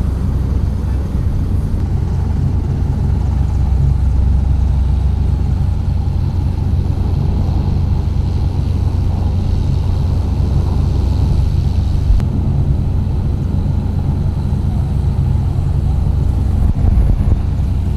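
Steady low roar of an F-35B jet engine, mixed with wind buffeting the microphone.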